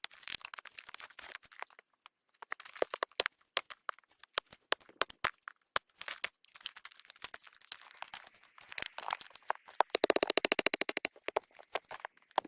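Wood fire crackling with irregular sharp snaps and pops, and a quick flurry of crackles about ten seconds in.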